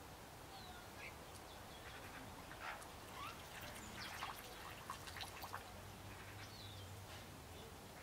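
Birds calling faintly: scattered short chirps and brief sliding notes, busiest in the middle.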